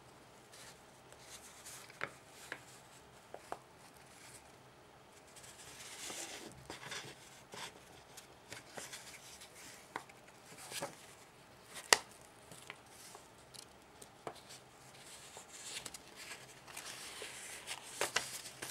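A sheet of paper being folded and creased by hand: soft rustling with scattered sharp clicks and taps, the loudest about twelve seconds in.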